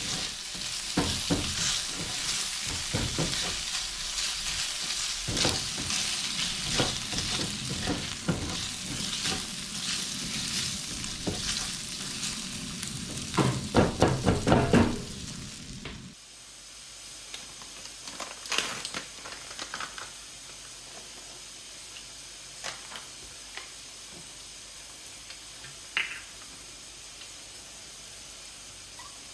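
Chopped bacon and red onion sizzling in a frying pan while being stirred, with frequent scraping strokes. The frying cuts off abruptly about halfway through, leaving a quiet kitchen background with a few light knocks.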